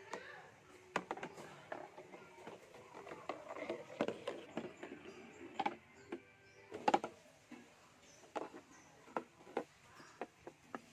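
Marbles rolling and clattering down a plastic track: irregular sharp clicks and clinks, some briefly ringing, over a faint rolling rumble. A couple of louder knocks come about four and seven seconds in.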